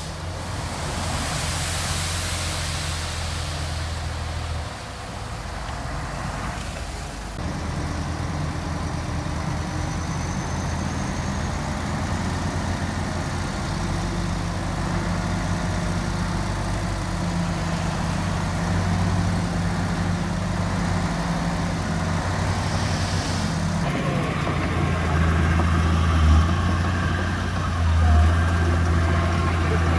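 Diesel engine of heavy earthmoving machinery running steadily, with a brief hiss in the first few seconds and two short surges in engine noise near the end.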